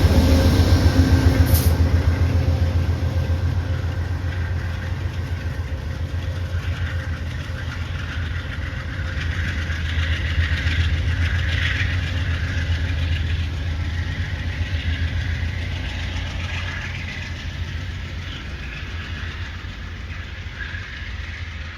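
A train rumbling away from the station platform, its low throb fading steadily as it recedes.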